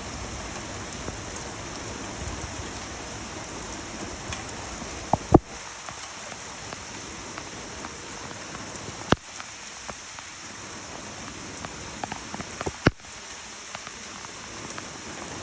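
Steady rain falling, with three sharp taps spaced about four seconds apart.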